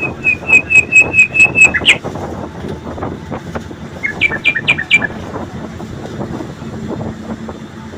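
A bird calling: a quick run of about eight short, clear notes, then a shorter run of four about two seconds later, over a steady low background rumble.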